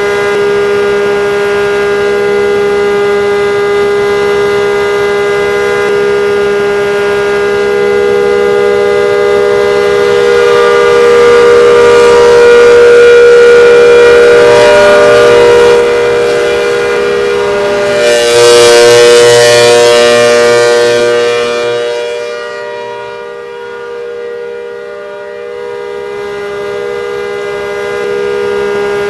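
ACA Hurricane civil defense siren sounding a steady two-note tone. Its loudness swells to a peak through the middle, falls away about three-quarters of the way in, and builds again near the end.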